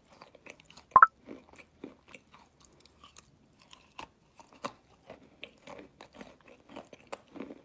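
Close-up mouth sounds of biting and chewing a soft food coated in wet clay-like paste (multani mitti, fuller's earth): many short wet clicks and smacks. A sharp, much louder click with a brief rising squeak comes about a second in.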